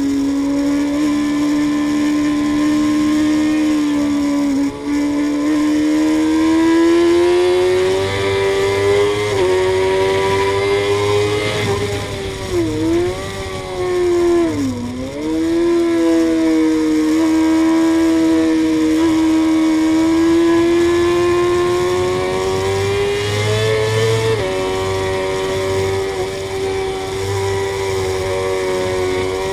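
Suzuki GSX-R inline-four sport bike at speed on a race track, heard from on the bike: the engine note climbs steadily and steps down in pitch at a few upshifts. In the middle it dips sharply twice as the throttle is rolled off, then picks up again.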